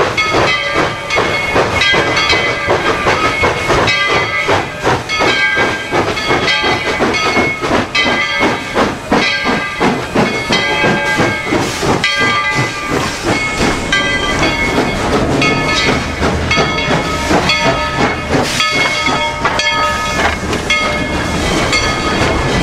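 Three-foot-gauge steam locomotive working, with loud steam hiss and rapid exhaust beats. Broken whistle tones sound above them throughout.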